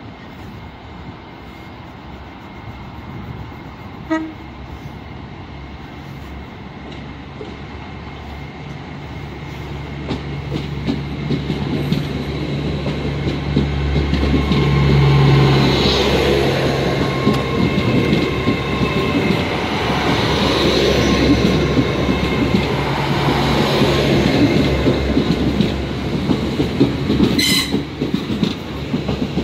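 A Hitachi Intercity Express Train in GWR livery runs in along the platform and past, its low hum and wheel-on-rail rumble growing loud from about ten seconds in and staying loud as the coaches go by. A short high tone sounds about four seconds in, and a brief high squeal near the end.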